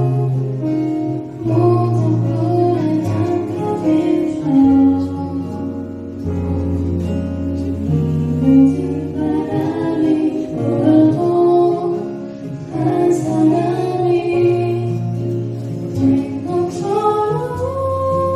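A woman's voice singing a ballad live, accompanied by guitar and keyboard.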